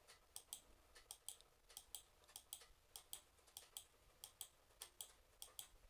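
Faint, quick clicking at a computer, about two to three clicks a second, some in quick pairs.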